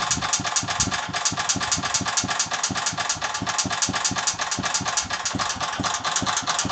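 Engine of an Agros walk-behind tractor idling with a fast, even knock running through it. The owner cannot tell what causes the knock.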